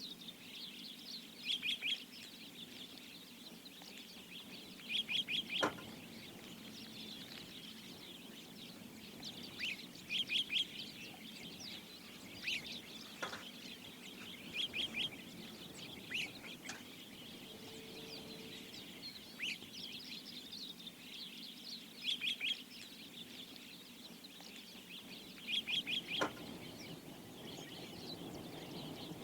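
Wild birds calling: a short burst of three or four quick, high notes repeats every few seconds, with scattered single chirps in between, over a faint steady background.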